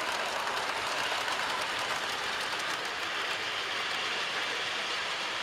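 00 gauge model train running along the track through a passing loop: a steady rolling rumble and hiss of wheels on rails with the motor running.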